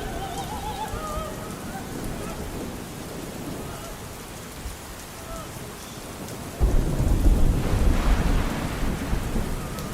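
Steady rain with a faint operatic singing voice, wavering with vibrato, that fades away in the first second or two. About two-thirds of the way in, a loud rolling rumble of thunder starts suddenly and lasts about three seconds.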